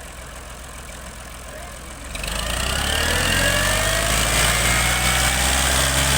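Tractor engine idling, then revved up about two seconds in: its pitch climbs and it settles into a loud, steady run.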